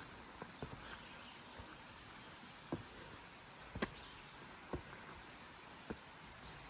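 A hiker's footsteps: a few short, sharp steps about a second apart over a faint, steady background.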